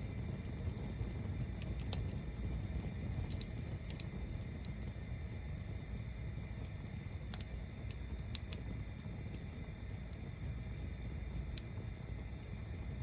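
Log-tower bonfire burning: a steady low rumble with scattered sharp crackles and pops.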